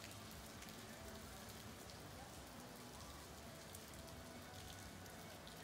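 Faint, steady rain falling on wet pavement, dotted with sharp drip ticks.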